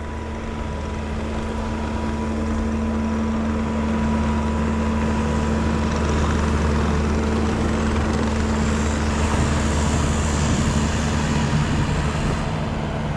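A large skid steer's diesel engine running steadily under load as it pushes snow; it gets slightly louder a few seconds in.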